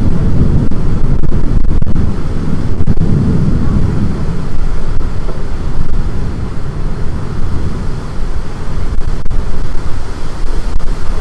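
Storm wind gusting hard across the microphone, a loud, continuous low rumble that rises and falls and eases a little past the middle.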